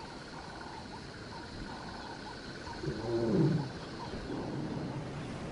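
Lion giving a low moaning call that falls in pitch, about three seconds in, over a faint steady high buzz.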